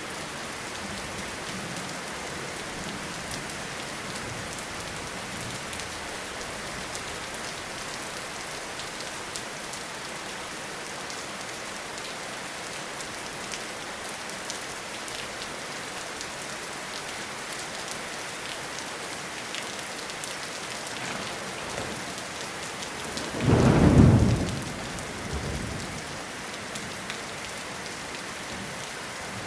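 Steady rainfall in a forest, an even hiss of rain on leaves and ground. Late on, a short, loud rumble of thunder rises and fades within about two seconds, with a weaker after-rumble.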